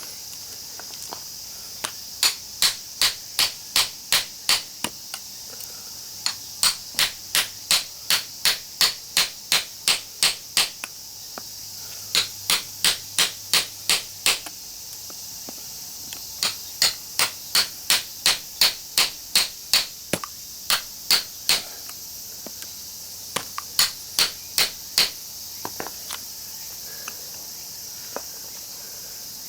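Hammer striking metal on a small scrap transformer, likely its iron core or a chisel set against it. The blows come in runs of about a dozen sharp, bright clinks at roughly three a second, with brief pauses between runs.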